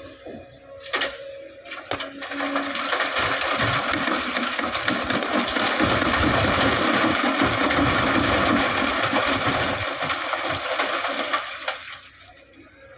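Sand pouring from an excavator bucket into a dump truck's bed. A few sharp knocks come first, then a dense rattling rush of grains and small stones runs for about ten seconds and dies away near the end.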